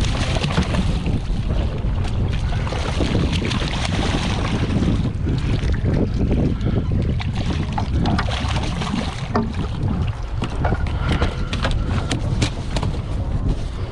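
Wind buffeting the microphone aboard a small fishing boat at sea, a steady low rumble with a hiss that thins about nine seconds in. Scattered small clicks and knocks come through, more of them in the second half.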